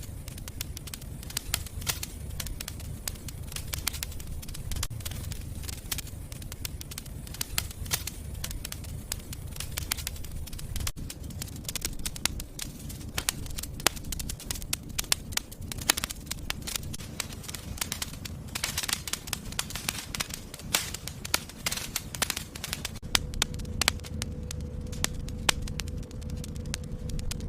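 Wood fire burning in a fireplace, crackling and popping constantly over a low rumble of flames. A faint steady tone joins in near the end.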